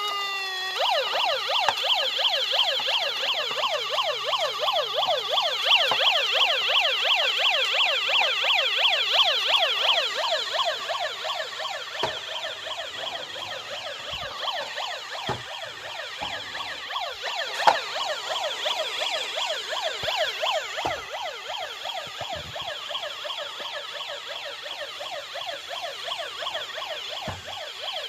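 Electronic police-siren sound effect of a Wen Sheng "Space Super Police" bump-and-go toy, warbling rapidly up and down in pitch, about three sweeps a second, with occasional short knocks in the second half.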